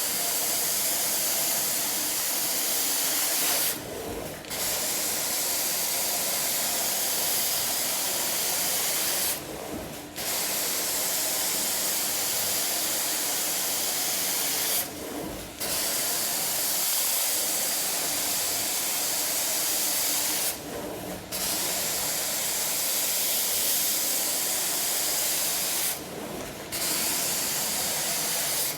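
A hot water extraction carpet-cleaning wand spraying and sucking up water in a steady loud hiss. It is worked in strokes of about five seconds, each followed by a short break of about half a second.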